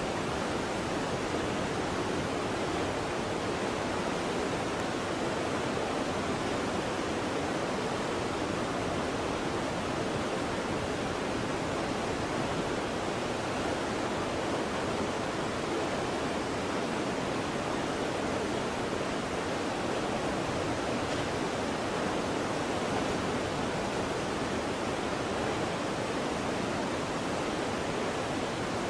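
Waterfall: falling water rushing in a steady, unbroken wash.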